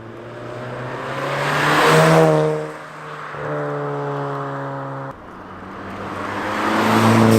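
Volkswagen with a resonator-deleted exhaust driving by, its exhaust note rising in loudness to a peak about two seconds in and fading as it passes. After a cut there is a steadier stretch of engine note, then another pass-by builds to a peak near the end.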